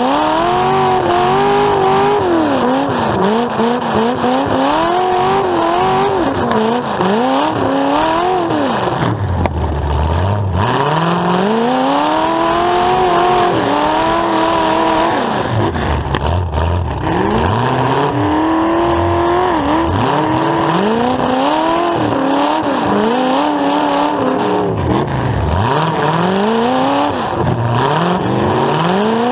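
Full-size demolition derby car's engine heard up close through its open upright exhaust stacks, revved hard and let fall again over and over, the pitch climbing and dropping every second or two and sinking at times to a low rumble.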